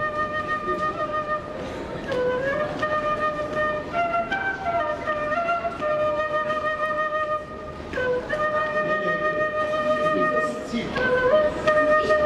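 A wind instrument playing a slow melody: long held notes, each joined to the next by a short run of quicker steps, with a brief dip in loudness about seven and a half seconds in.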